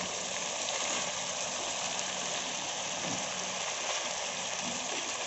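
Bone-in chicken pieces with ginger-garlic paste frying in hot oil in a karahi, giving a steady, even sizzle.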